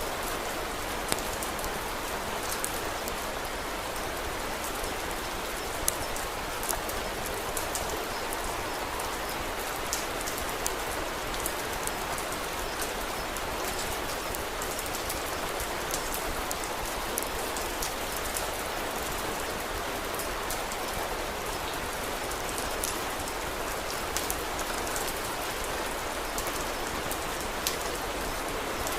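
Steady rain falling, with irregular sharp pops and crackles from a wood fire scattered through it.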